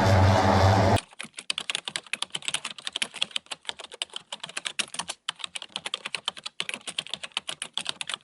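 A steady rumbling noise cuts off about a second in. It gives way to a fast run of light, sharp clicks, several a second with a few short pauses, like typing on a keyboard.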